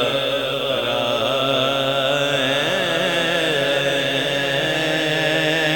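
A man's voice singing a long, ornamented held line of an Urdu naat, the pitch wavering and sliding without a break, steady and loud.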